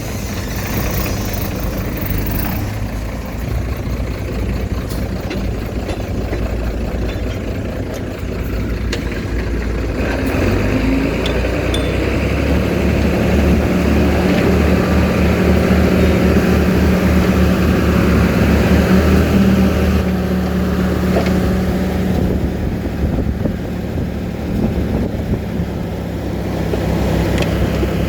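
Diesel engine of heavy earthmoving machinery running. It grows louder and steadier from about twelve seconds in, eases after about twenty seconds, and picks up again near the end.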